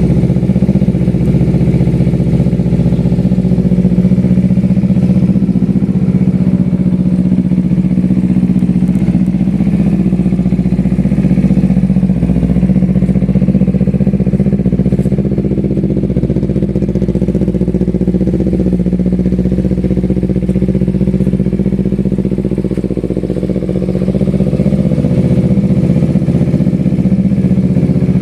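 Kawasaki Z250 parallel-twin engine running steadily, likely at idle, through an Austin Racing aftermarket exhaust, a deep even exhaust note that dips slightly about four-fifths of the way through.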